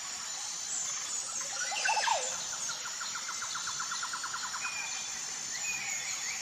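Forest birds singing: a loud swooping call about two seconds in, then a rapid trill of evenly repeated notes for a couple of seconds, and another trill starting near the end. A steady high-pitched insect drone runs underneath.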